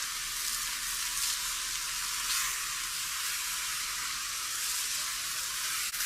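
Forest fire burning: a steady dense crackling hiss, sizzling like frying.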